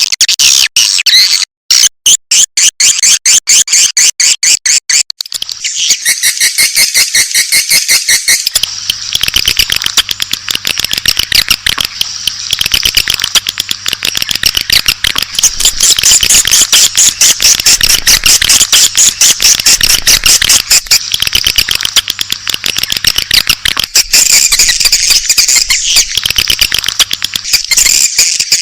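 Swiftlet (walet) calls played as a lure to draw swiftlets into a nesting house: rapid high chirps and clicks, at first as separate bursts, thickening after a few seconds into continuous dense twittering. A faint low hum joins about a third of the way in.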